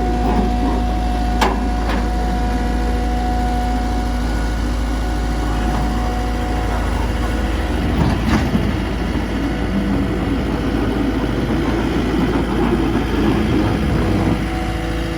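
A vehicle engine running steadily at idle, with a few short knocks and clanks.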